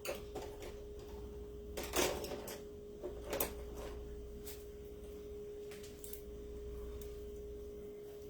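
A few small clicks and knocks of craft tools and supplies being handled on a tabletop, spaced about a second apart, over a steady low electrical hum.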